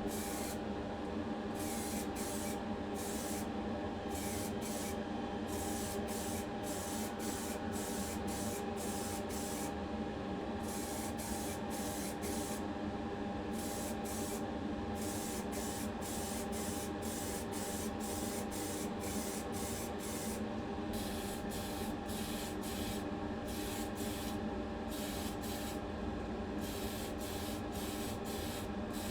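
Spray paint being applied to a diecast car body, primer and then colour coat: a hiss that cuts in and out many times over a steady hum from a motor or fan.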